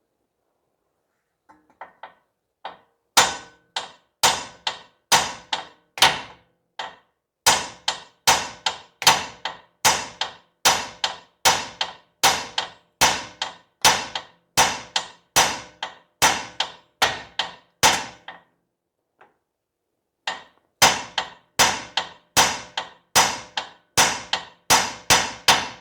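Steel hammer blows on the suspension of a Honda CR-V, knocking a stuck ball joint loose. Sharp, ringing metal strikes come about two a second. They stop briefly about three quarters of the way in, then resume a little faster.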